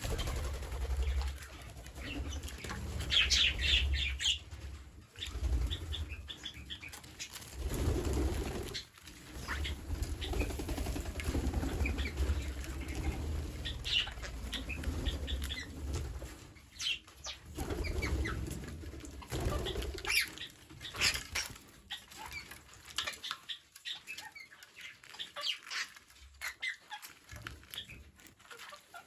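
Birds' wings flapping in repeated bouts, with scattered short high chirps.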